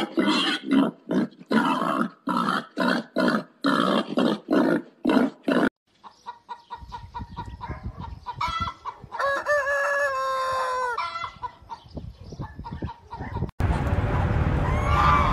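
Domestic pigs grunting in a quick series of short loud bursts for the first five seconds or so, then chickens clucking with a rooster crowing once in the middle. Near the end, greylag geese calling over a low rumble.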